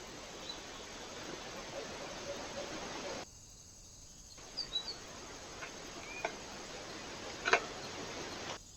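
Hiss from a trail camera's microphone that cuts in and out between spliced clips, with a few short high bird chirps and several sharp clicks, the loudest click about seven and a half seconds in.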